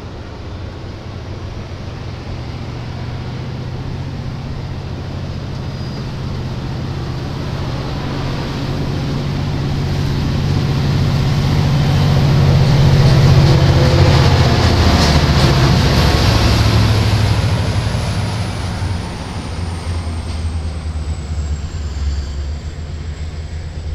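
A diesel train passing by. The locomotive's engine note builds to its loudest about 13 seconds in, drops in pitch as it goes past, then fades as the train moves away, with a high whine that also falls in pitch.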